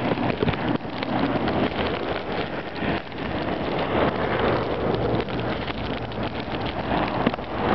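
Wet, blizzard-driven snow pattering on surfaces in a dense, crackling hiss.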